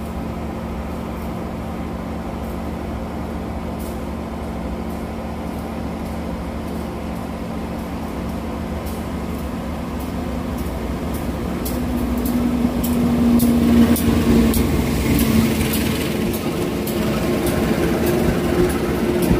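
Steady low hum of trains standing at a station; then, from about halfway, an oncoming diesel-electric locomotive's engine grows louder as it pulls a passenger train in on the next track, with the wheels clicking over rail joints as its coaches pass alongside.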